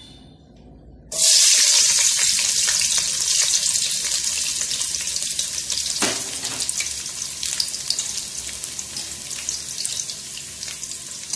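Sliced shallots, garlic and ginger going into hot oil in a wok about a second in: a sudden loud sizzle that carries on, slowly dying down as they fry.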